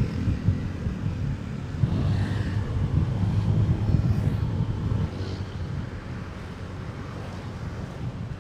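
Motorcycle engine running under way with wind rushing over the microphone, swelling louder for a few seconds in the middle before settling back.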